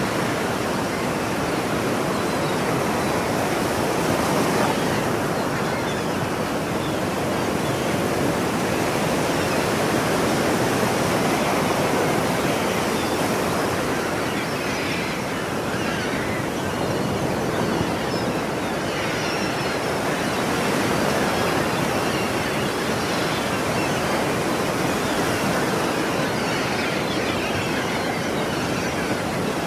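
Ocean surf: waves washing in a continuous rush that swells and eases gently every several seconds.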